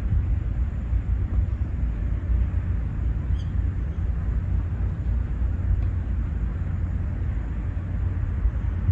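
Outdoor park ambience: a steady, fluctuating low rumble, with one brief faint high chirp about three and a half seconds in.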